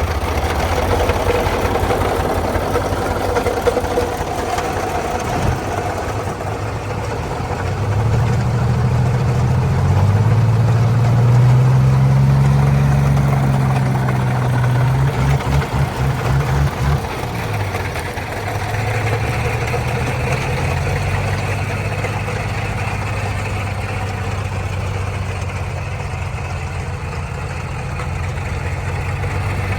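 Heavy truck engine running under load. Its note rises and strengthens about a quarter of the way in, pulses unevenly for a couple of seconds around the middle, then settles back to a steady run.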